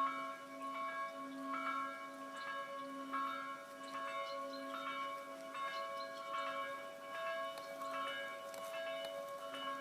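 Ringing metallic bell tones, struck again and again about twice a second, the notes overlapping into a steady chiming drone.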